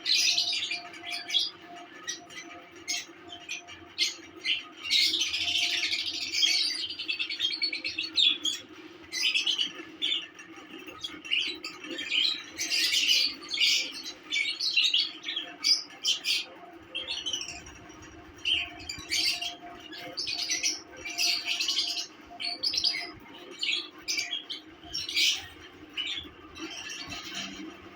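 Lovebirds chirping and chattering in quick, sharp, high calls, in busier spells now and then, over a steady low hum.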